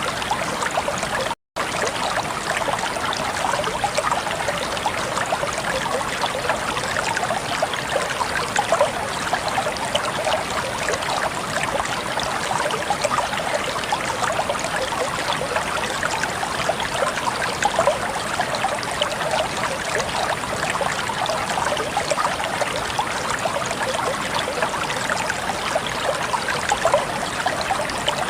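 Flowing water running steadily, an even unbroken wash of sound, with a split-second cut-out near the start.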